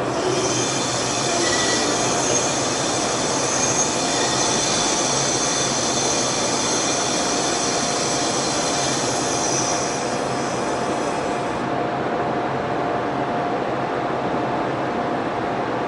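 ED76 electric locomotive and its container wagons moving slowly, with a high-pitched wheel and brake squeal that cuts off suddenly about twelve seconds in. A steady hum from the locomotive carries on underneath.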